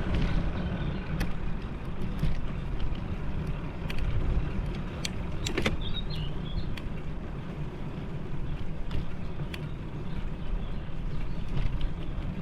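Steady low rumble of wind and road noise while riding a bicycle, with scattered light clicks and a brief high chirp about six seconds in.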